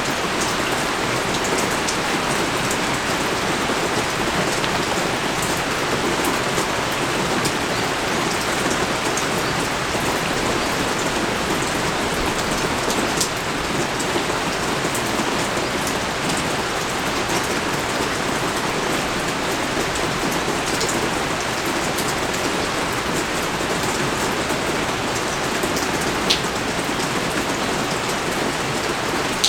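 Rain pouring steadily: a dense, even hiss of falling rain with a few sharper drop hits, one standing out near the end.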